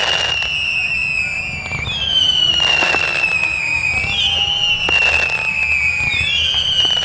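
Fireworks display: sharp bangs and crackling bursts, overlaid by high whistles that slide slowly downward and start afresh about every two seconds.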